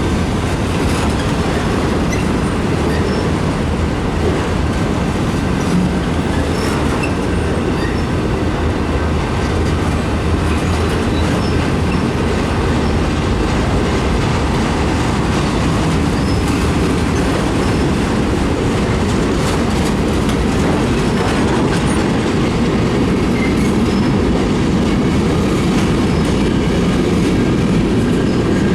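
Freight cars of a mixed freight train rolling past: a steady, loud rumble of steel wheels on the rails, with scattered clicks over the rail joints and a faint wheel squeal.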